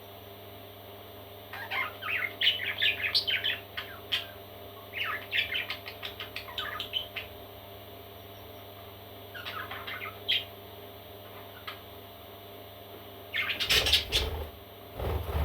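Parrot chicks chirping in quick runs of short, high calls, in three bouts. Near the end there is a louder, fuller burst of sound that reaches down low.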